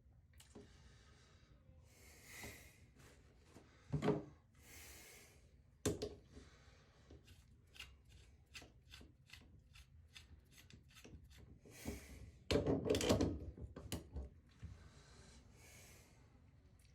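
Hand work on a shower floor drain: rubbing and scraping, a few knocks, a run of quick clicks, and a louder stretch of scraping about two-thirds of the way in, with soft breathing in between.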